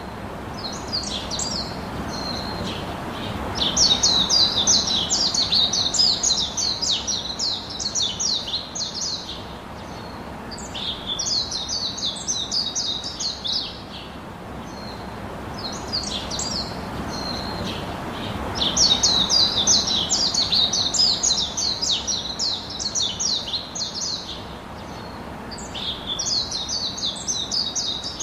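Songbirds singing: long runs of rapid, high chirping notes that come in phrases of a few seconds, several times over, with short gaps between them, over a steady background hiss.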